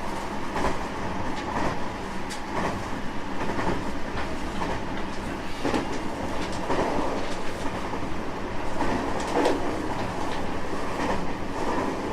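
Aboard a JR West 225 series 5000 subseries electric train with Toyo IGBT inverter drive, running along the line: a steady rumble of wheels on rail, with a clack from the rail joints about once a second.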